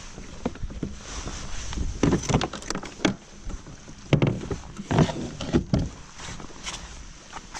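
Water splashing and sloshing around a fishing kayak in irregular bursts, with low wind rumble on the microphone.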